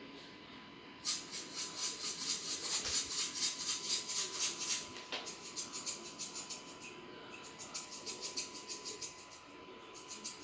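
Rapid high-pitched chirping, about four chirps a second, starting about a second in and going on more faintly after about five seconds, over a faint steady high tone.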